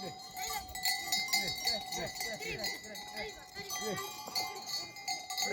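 Bells on a flock of livestock ringing continuously, with steady metallic tones, over many short calls from the animals.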